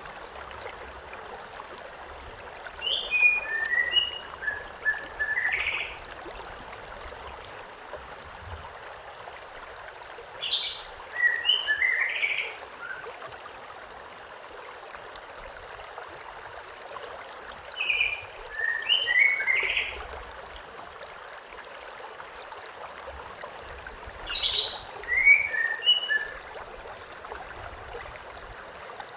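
A songbird singing the same short phrase of quick chirping notes four times, about every seven seconds, over the steady rush of a flowing river.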